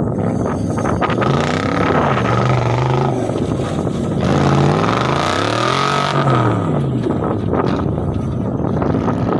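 Off-road vehicle engine revving up and falling back several times, the longest and highest rev about halfway through.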